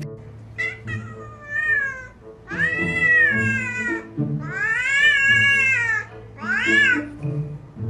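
Domestic cat meowing four times: long, drawn-out meows that rise and then fall in pitch, the last one short. Background music plays underneath.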